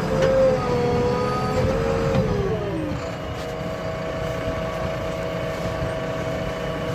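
Heavy diesel vehicle engine running with a tonal whine; its pitch drops about two and a half seconds in as it slows, then holds steady.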